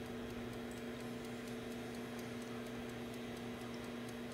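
Steady low electrical hum with faint, rapid, even ticking at about four ticks a second.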